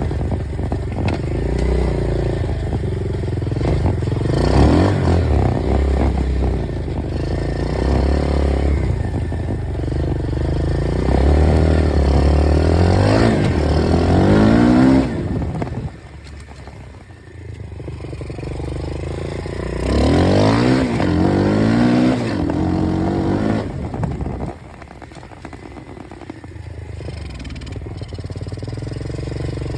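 Dirt bike engine running hard, its pitch climbing several times as it revs up. The sound drops off suddenly twice, about halfway through and again later on, then builds back up.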